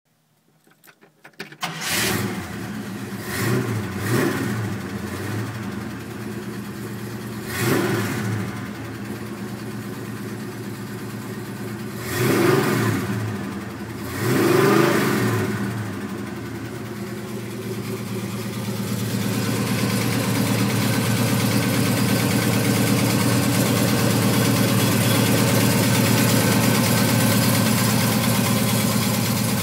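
A small-block Chevy 350 V8 breathing through Patriot mid-length headers, a Bassani X-pipe and a Bassani exhaust, cranked on the starter and catching within about two seconds. It is blipped through several short revs, then settles into a steady idle.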